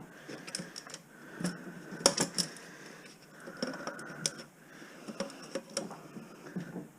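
Scattered light metallic clinks and knocks as scrap metal and cable are handled, with a cluster of sharper clicks about two seconds in.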